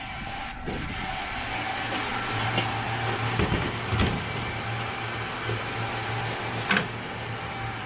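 A steady low mechanical hum with a few sharp clicks and knocks, typical of scooter batteries being pulled out of and slotted into a battery-swap station.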